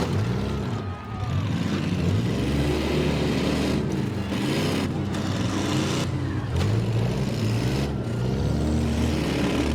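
Several demolition derby car engines running at once, revving so that their pitch keeps rising and falling.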